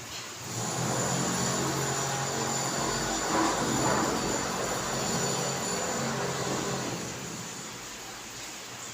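Engine of a passing vehicle or aircraft, rising from about half a second in, loudest around the middle and fading away by near the end.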